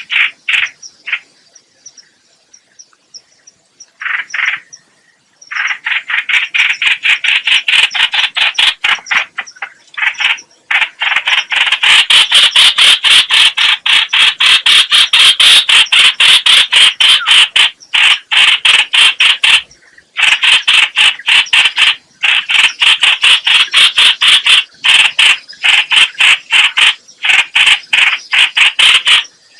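Trao trảo (hoành hoạch) bird calling: loud, fast runs of harsh repeated notes, about four a second. After a pause of a few seconds near the start, the calls run on almost without a break.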